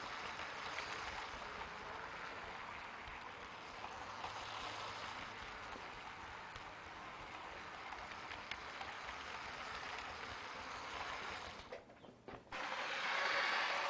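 LEGO 9V trains running on the layout: a steady rattling noise from the track, with a few faint clicks. About twelve seconds in it drops away for a moment, then comes back louder.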